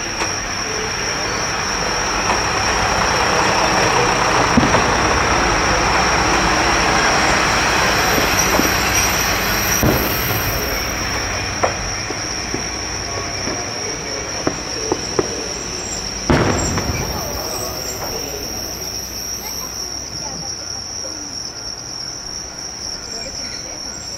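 A Joso Line diesel railcar running into the station and braking to a stop: the train noise builds, holds for several seconds and then fades. Crickets chirp steadily throughout, and several sharp bangs of fireworks cut in, the loudest about 16 seconds in.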